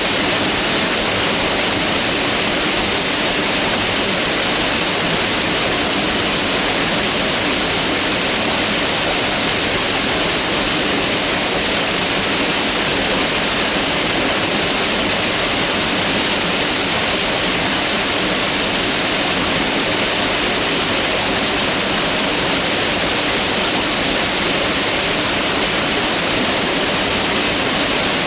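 Mountain river rushing steadily over rocks, a loud, even wash of water with no breaks or changes.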